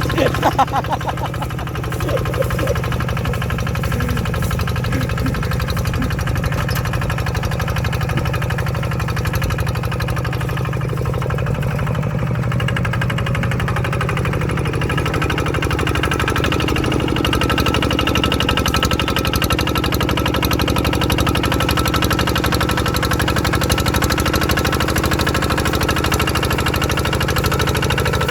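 Tractor engine running steadily with a fast, even chugging while it pulls a moldboard plough.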